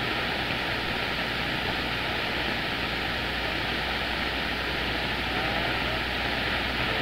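CB radio receiver hissing with steady band noise on an open channel between skip transmissions, the hiss cut off above the radio's audio range. Faint warbling tones begin to come through near the end.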